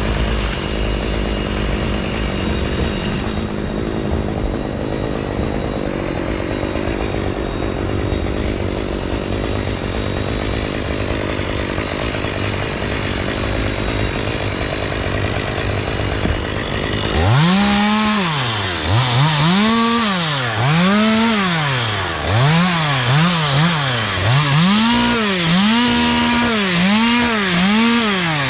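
Two-stroke chainsaw running at a steady speed for a while, then revved up and down over and over, its engine note rising and falling about once a second.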